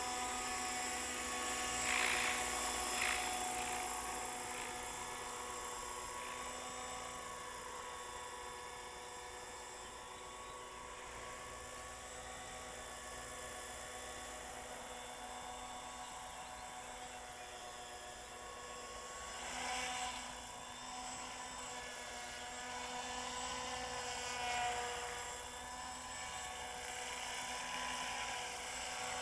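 Radio-controlled Hurricane 550 helicopter in an Agusta A109 scale fuselage flying, its motor and rotor blades giving a steady high whine. It swells louder briefly a few times, about two seconds in, and again about two-thirds and five-sixths of the way through.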